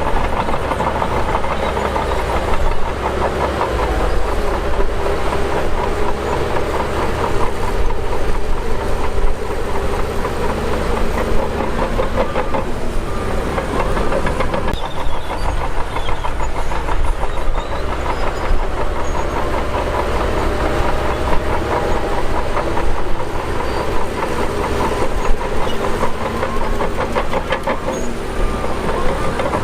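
Shantui DH17 bulldozer working: its diesel engine running steadily under load, with the clanking rattle of its steel tracks. The engine note eases briefly about halfway through, then picks up again.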